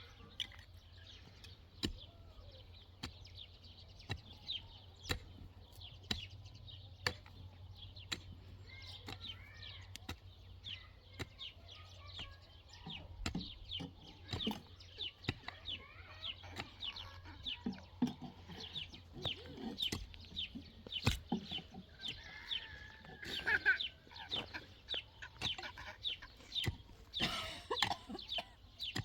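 Birds chirping in many short, falling calls that come more thickly in the second half, with scattered sharp clicks.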